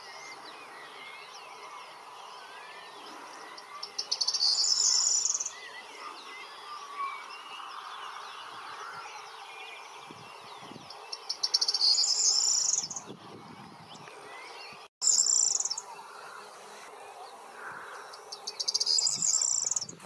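Corn bunting singing four short songs a few seconds apart. Each song is a quickening run of ticks that ends in a high, jingling trill. Other birds chirp faintly beneath.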